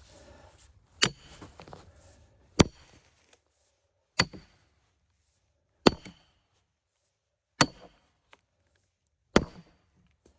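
Hammer blows driving a steel splitting wedge into a cedar log: six sharp metallic strikes, about one every one and a half to two seconds, each with a brief ring.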